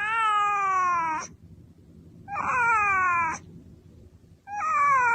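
A cat meowing three times, each long meow falling in pitch, about two seconds apart.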